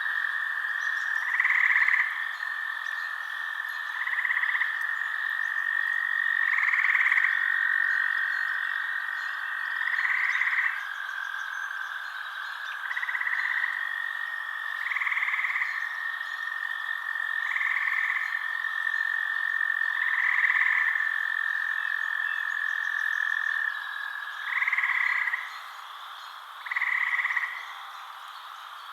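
Frogs calling at night: a steady, unbroken trill that stops near the end, with a short croak repeating roughly every two and a half seconds.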